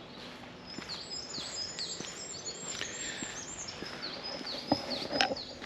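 Wild birds singing: a run of quick, high chirps that sweep downward, repeated over and over. A couple of sharp knocks come near the end.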